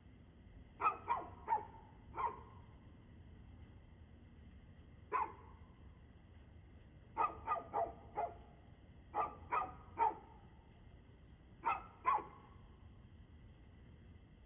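A dog barking in short groups of two to four sharp barks with pauses of a second or two between, about fourteen barks in all, over a faint steady hum.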